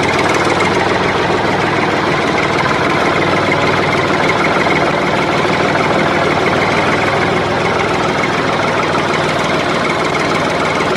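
A motor running steadily and loudly, with an even low hum and a faint high whine, unchanging throughout.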